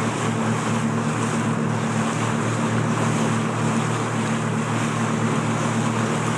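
Motorboat running steadily at speed, engine hum under the hiss of water rushing past the hull and wind buffeting the microphone.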